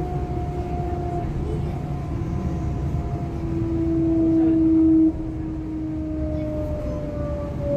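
Electric traction motors of a DB class 425 multiple unit whining as the train runs, over the low rumble of the running gear. Several whine tones slowly fall in pitch. One louder tone swells from about three and a half seconds in and cuts off suddenly about five seconds in.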